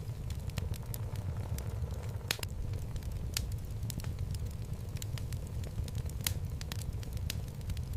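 Wood fire burning in a fireplace: a steady low rumble of flames with irregular sharp crackles and pops from the burning logs, the loudest pop about two and a half seconds in.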